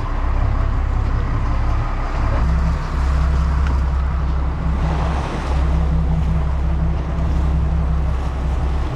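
Motorboat engine running steadily under way, a deep even hum, with wind and rushing water over it.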